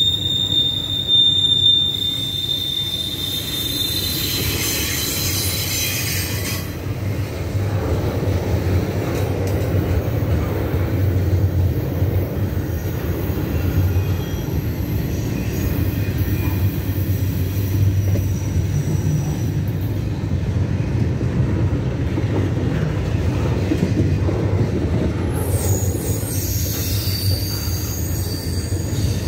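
Double-stack intermodal freight train's well cars rolling past with a steady rumble of wheels on rail. High wheel squeal comes in the first few seconds and again near the end.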